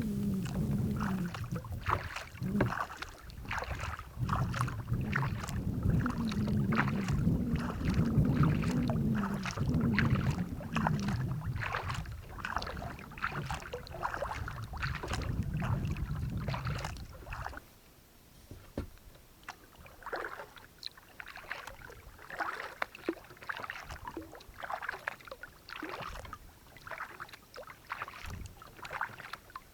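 Kayak paddle strokes dipping and splashing in the water, over and over. For most of the time a loud low rumble runs underneath, and it cuts off suddenly about two-thirds of the way through, leaving only the paddle splashes and drips.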